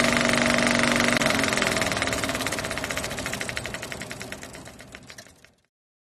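A rapid, evenly pulsing engine-like mechanical sound that fades steadily and is gone about five and a half seconds in.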